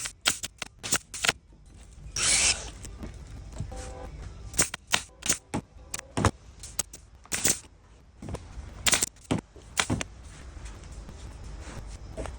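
Staple gun firing staples, an irregular series of sharp snaps, about a dozen, as covering is wrapped and fastened onto a boat's interior side panel. There is a short hiss about two seconds in.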